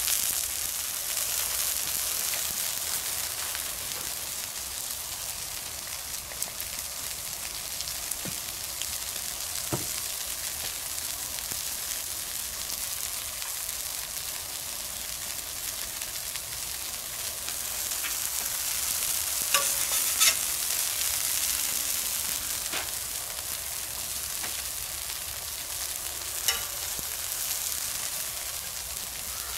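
Bacon, tomato slices and onions frying on a round steel fire plate (plancha) over a wood fire: a steady sizzling hiss. A few sharp clicks come through about two-thirds of the way in and again near the end.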